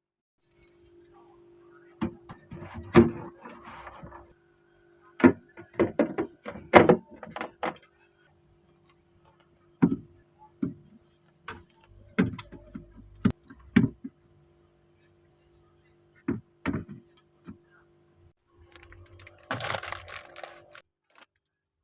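Household handling noises: a string of knocks, thuds and clicks of objects being set down or moved, with short bursts of rustling near the start and the end, over a steady low hum.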